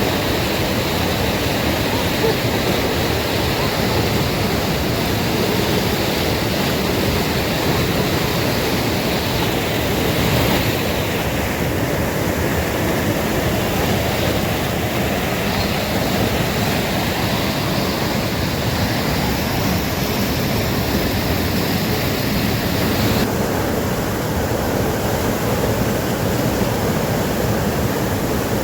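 Steady rush of a fast-flowing, rain-swollen mountain river, a dense unbroken wash of water noise whose hiss shifts in tone a few times.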